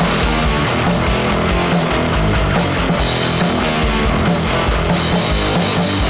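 Loud heavy rock music with distorted electric guitar and drums, playing steadily.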